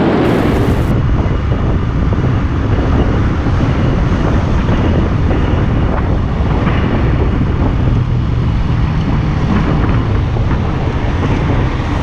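Heavy wind rushing over the microphone of a motorcycle riding at speed, a steady low rumble with the engine buried beneath it.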